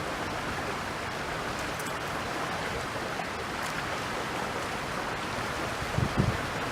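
Steady rushing noise of flowing stream water mixed with wind. A couple of low wind buffets hit the microphone about six seconds in.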